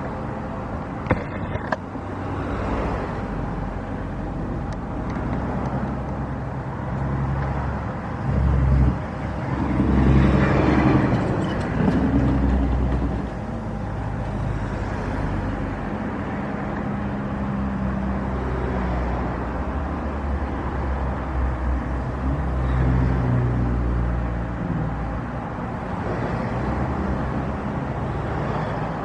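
Engine noise, steady with low humming tones, swelling louder between about eight and twelve seconds in.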